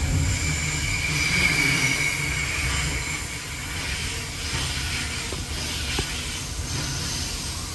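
Brisbane suburban electric train running on the rails with a steady rumble, its wheels squealing at a high steady pitch through the first few seconds before the squeal fades.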